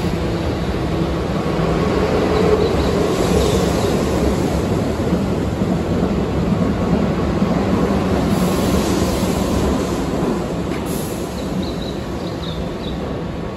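Keihan 5000 series electric commuter train running alongside the platform and coming to a stand: a steady rumble and hum of the cars, loudest in the middle and easing off over the last few seconds, with a few faint high squeaks.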